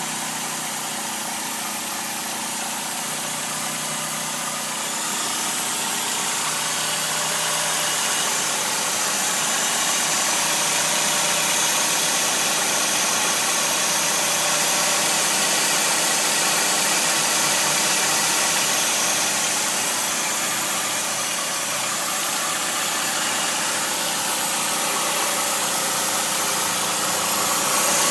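Chrysler PT Cruiser's four-cylinder engine idling steadily, heard close up in the engine bay.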